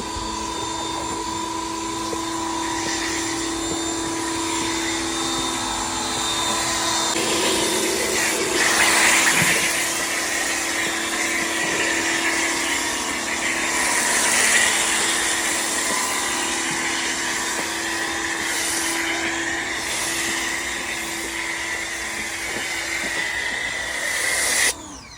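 A car-wash machine's electric motor running steadily with a whine and a rushing hiss that swells and fades, then cuts off suddenly near the end.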